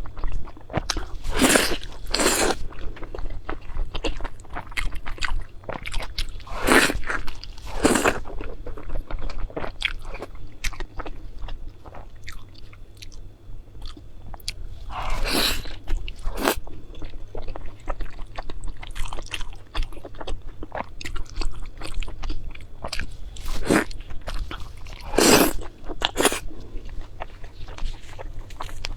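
Close-miked eating: loud, crisp crunching bites, mostly in pairs a second or so apart and a few seconds between pairs, with steady chewing in between.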